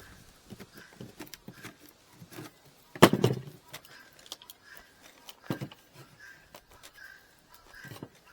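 Wooden beehive frames and wire being handled and worked: scattered light clicks and taps, with one loud knock about three seconds in and two duller knocks later.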